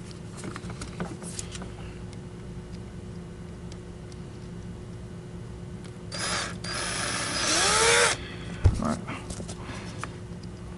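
Power drill with a bit running for about two seconds to bore dirt out of a clogged passage in an old Electrolux canister vacuum, its pitch rising near the end, followed by a single sharp thump. Light clicks and handling noises come before and after.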